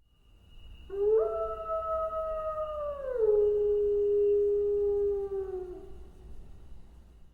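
Wolf howling: one long howl starting about a second in, held for about five seconds, stepping down in pitch about halfway through, then fading out.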